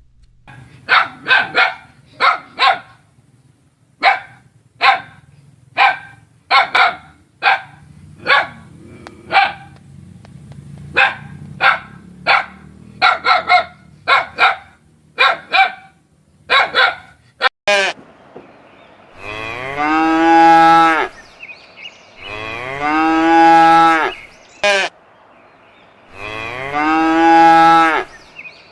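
A dog barks repeatedly in short, sharp barks for most of the first seventeen seconds. Then a cow moos three times in long, loud, drawn-out moos, each lasting about two seconds.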